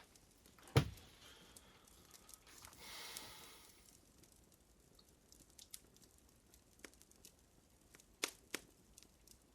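Fire crackling with sparse small pops. A sharp loud crack with a low thud comes about a second in, a short rustling swell around three seconds, and two more sharp pops near the end.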